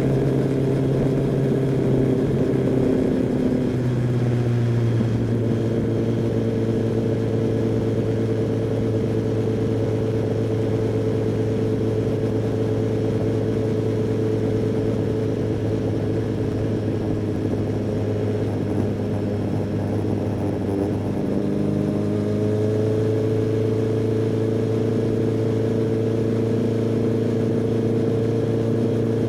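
Kawasaki ZX-10R inline-four engine and exhaust running at low, steady revs. The engine note shifts to a new pitch twice, about four seconds in and again past the middle.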